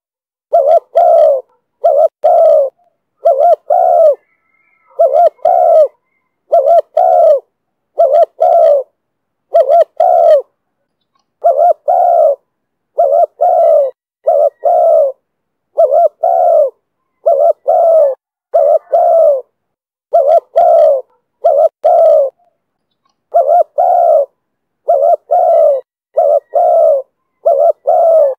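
Spotted dove cooing: the call style Vietnamese dove keepers call 'thổ thúc bổi'. Loud, low coos come in close pairs and short groups, repeated every second or two with brief pauses.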